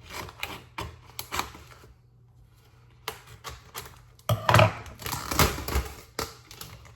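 Kitchen utensil clatter: irregular clicks, knocks and scrapes of a spatula against a pan while ground turkey is being cooked, with a short pause and a louder cluster of knocks later on, over a low steady hum.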